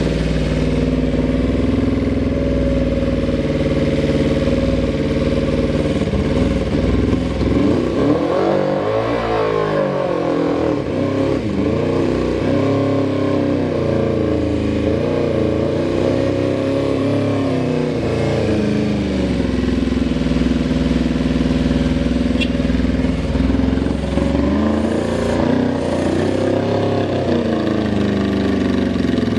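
Suzuki Bandit 400's inline-four engine running at a steady idle, with the throttle blipped so the revs rise and fall about eight seconds in and again near the end. No knocking or odd noise stands out, in keeping with an engine sold as idling stably without abnormal sounds.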